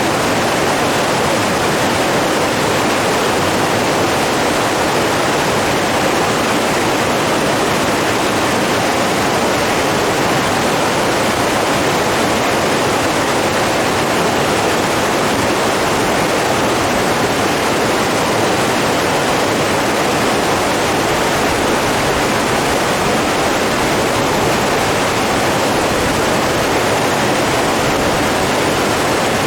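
Steady rushing water, running at an even level with no breaks or separate events.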